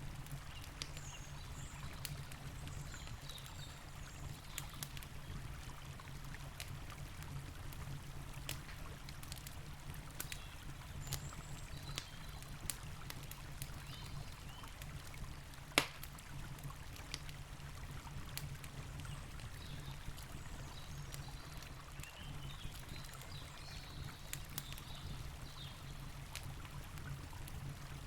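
Campfire crackling with scattered sharp pops, one louder pop about halfway through, over the steady rush of a flowing river.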